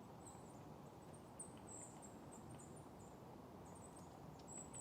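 Faint, very high-pitched bird chirps, a string of short thin notes every fraction of a second, over quiet outdoor background.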